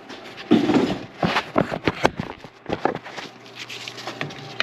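Irregular clicks, knocks and a brief scraping rustle about half a second in, from hands and a flathead screwdriver working on the plastic air intake parts and hose clamps.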